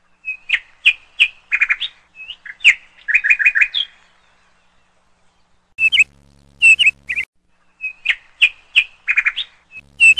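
A bird chirping in quick runs of short chirps, falling silent for nearly two seconds about four seconds in, then chirping again.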